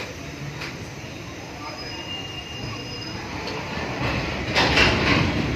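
Passenger train coach rolling slowly along a station platform, heard through an open coach window: a steady wheel rumble with faint thin squeals, growing louder, and a short louder rush of noise about four and a half seconds in.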